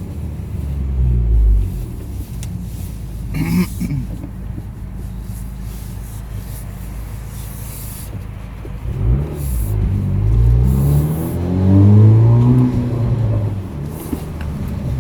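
2019 Honda Accord's turbocharged 2.0-litre four-cylinder running with cats and muffler deleted and a PRL intake, a low rumble throughout. About three and a half seconds in it gives a short rev blip, and from about nine seconds a longer pull, its pitch rising to a peak around twelve seconds before falling away as the throttle closes.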